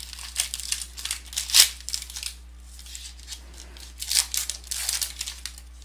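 Plastic wrapper on a sealed trading-card box or pack crinkling and tearing as it is pulled open, in a run of short crackles with two louder rips.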